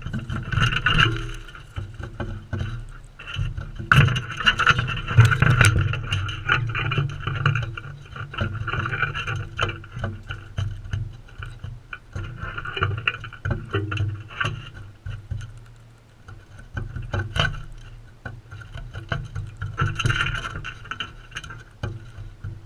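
Parrots feeding at close range: many sharp pecking and seed-cracking clicks over a steady low hum.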